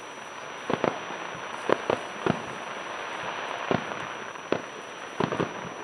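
Fireworks bursting: a string of about ten sharp bangs, some coming in quick pairs and triplets, over a continuous crackling hiss.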